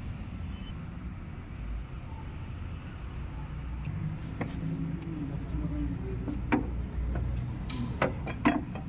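Hand tools clinking and knocking on metal engine parts over a steady low background rumble: a few sharp clicks in the second half, several close together near the end.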